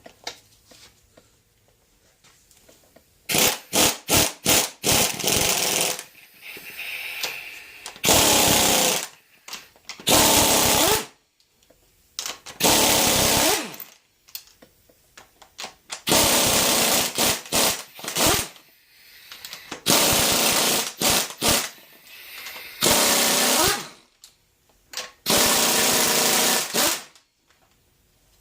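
Pneumatic impact wrench hammering in a series of bursts, loosening engine bolts during a teardown. First comes a quick string of short bursts, then about eight longer runs of one to two seconds each, with quiet gaps between them.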